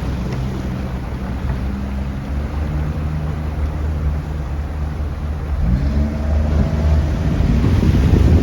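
Mini speedboat's engine running steadily under the rush of water and wind, then revving up about six seconds in and growing louder as the boat speeds up.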